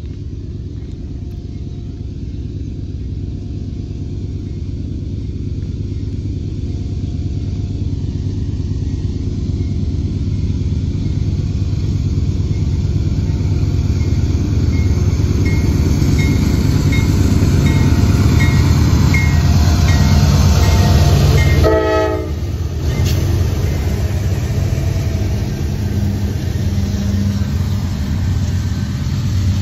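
A pair of CSX GE diesel freight locomotives, one a former Conrail Dash 9, approaching and passing with a deep engine rumble. The rumble grows steadily louder to a peak about two-thirds of the way through. After a brief crackle it settles into the steady rolling of the tank cars behind.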